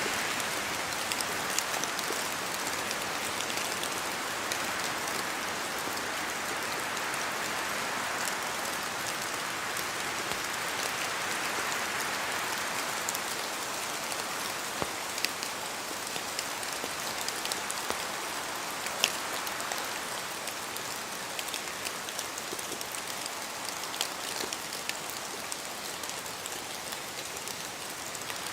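Rain falling through spruce trees with wind: a steady hiss that swells and eases, with scattered sharp drops landing close by.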